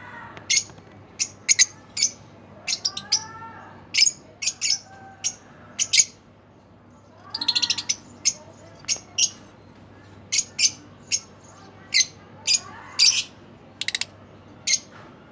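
Home-bred pet birds chirping: many short, sharp, high chirps with a quick run of chirps about halfway through, and a few lower rising-and-falling calls among them.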